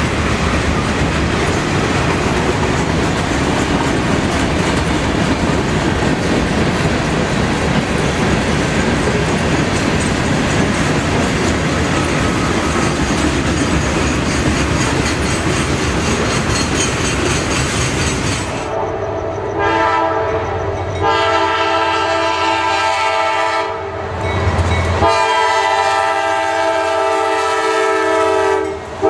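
Freight train boxcars rolling past close by with a steady rumble and wheel clatter. About 18 seconds in this stops abruptly and an approaching locomotive's multi-tone air horn sounds in several long blasts with short breaks.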